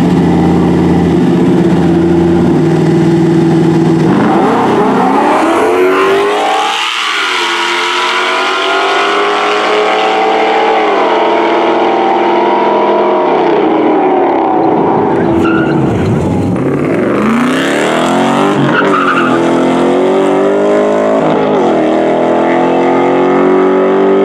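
Race-car engines held at a steady note for about four seconds, then launching hard, their notes rising through the revs and dropping back at each gear change. Near the middle the pitch falls away and climbs again.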